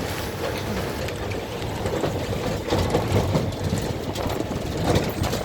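A vehicle running, with steady road and wind noise.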